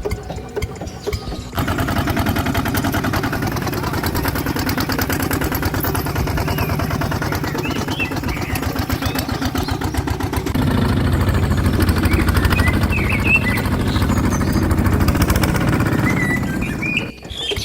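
Small engine running with a rapid, even pulse. It starts about a second and a half in and runs louder from about ten seconds in.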